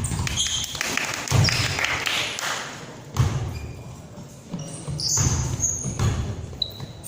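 Basketball bouncing on a gym floor during play, with scattered thuds and a few short high-pitched squeaks in a reverberant hall.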